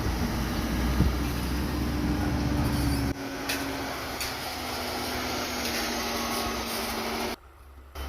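Diesel dump truck engine running with a steady low hum and rumble; the rumble drops away abruptly about three seconds in, and the sound cuts out briefly near the end.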